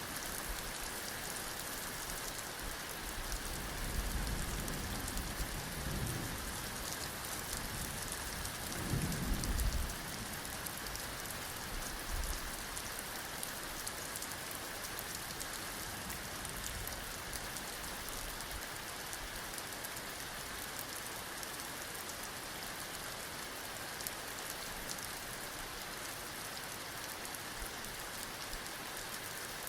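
Steady heavy rain falling throughout. Low rumbles of thunder come twice in the first ten seconds, with a smaller one shortly after.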